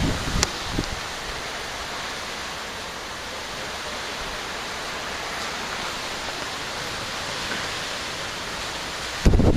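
Steady, even rushing noise, with low gusty rumbles dying away in the first second, a sharp click about half a second in, and a brief loud low buffet near the end.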